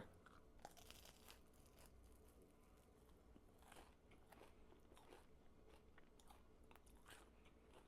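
Faint, irregular crunching as a person bites and chews toasted bread with butter and salt.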